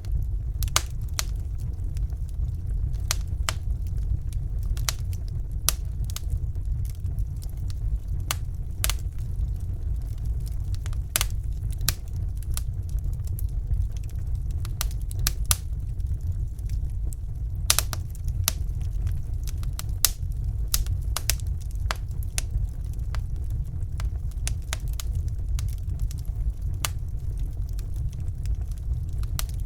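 Fire burning in a fireplace, crackling with sharp, irregular pops over a steady low rumble.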